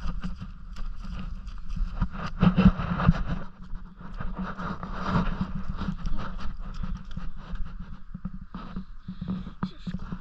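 Footsteps walking through wet mud and puddles, with irregular knocks and scrapes.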